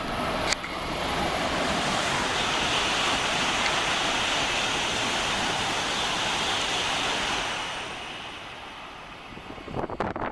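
Tohoku Shinkansen bullet train passing non-stop through a station at high speed: a rushing roar that builds, holds for about six seconds, then dies away. A single sharp click comes about half a second in.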